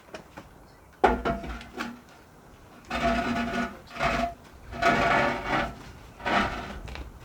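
A sharp knock, then four rough scraping or rubbing strokes, each half a second to a second long, with a faint ringing tone in them.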